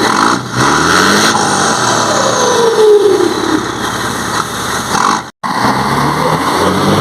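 Scania 113's six-cylinder diesel engine revved while parked, its turbo fitted with a 'pente' (comb) modification whistling loudly, the whine falling in pitch as the revs drop off, twice. The sound cuts out for an instant about five seconds in.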